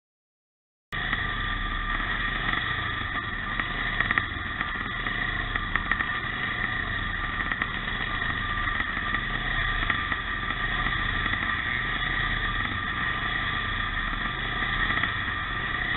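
Pre-65 vintage motocross motorcycle engines running with a steady drone, starting about a second in.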